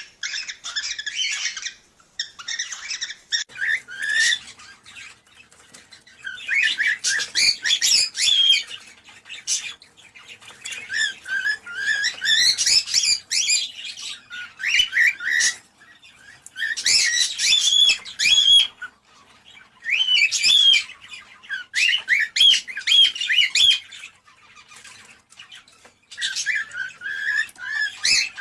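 Cockatiels chattering and whistling in repeated phrases of rapid, pitch-bending chirps, each a second or few long, with short pauses between them.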